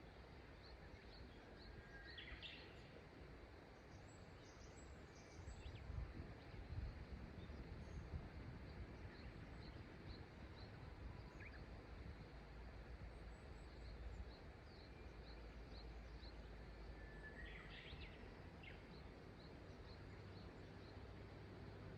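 Faint, steady rush of river water with birds calling. A short high chirp repeats about once a second, and a louder rising call comes twice, about two seconds in and near the end. A few low rumbles come around six to eight seconds in.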